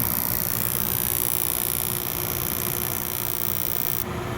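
Gas-fired heating unit running through an ignition retry: a steady electrical hum under a loud high hiss that cuts off abruptly near the end.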